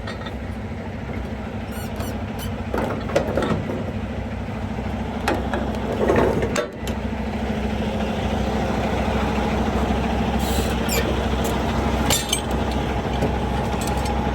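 Semi truck's diesel engine running steadily, with a few sharp metallic clicks and knocks over it. The engine grows somewhat louder about halfway through.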